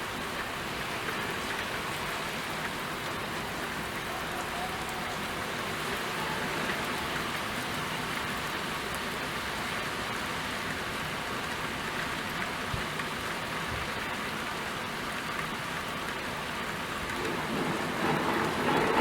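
Steady rain falling and pattering on surfaces, an even hiss of drops. Near the end it swells noticeably louder.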